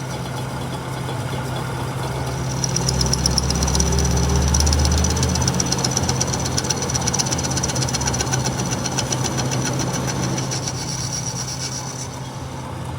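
Truck engine idling. About three seconds in, a deeper rumble swells and then eases off by about six seconds, and a fast, high ticking runs over it until near the end.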